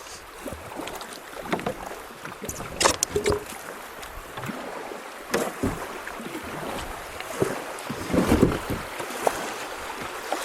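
A kayak moving through creek water: paddle strokes splash and knock against the boat over a steady rush of water, with a few louder low thumps about eight seconds in.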